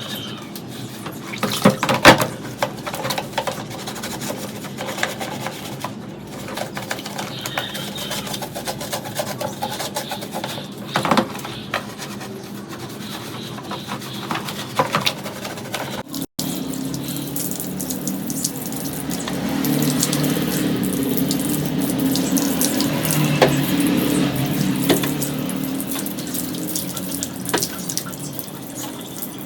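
Water running from a tap while something is washed, with scrubbing and scattered knocks in the first half. After a cut about halfway through, a steadier stream of water that grows louder for several seconds, then eases.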